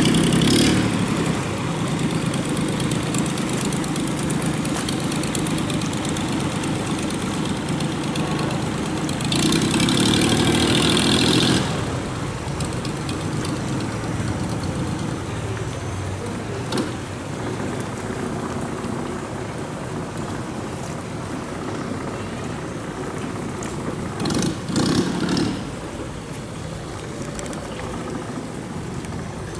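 Long-tail boat engine running steadily. It gets louder for about two seconds around ten seconds in, and again briefly near the end.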